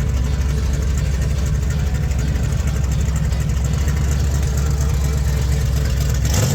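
Classic car's engine running steadily at low revs with a deep rumble, as it cruises slowly past.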